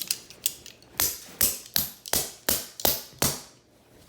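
Toy pieces dropping and clacking onto a hard surface: a quick run of sharp clacks, about three a second.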